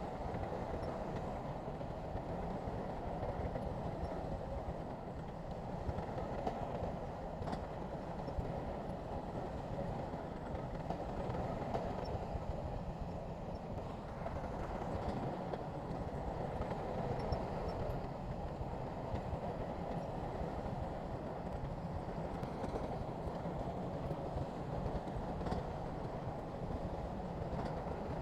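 Heavy diesel earthmoving machinery working: a steady engine rumble with a rough, rattling edge that holds evenly throughout.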